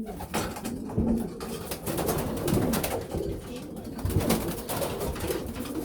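Racing pigeons cooing over and over, with frequent short clicks and rustles of birds moving about.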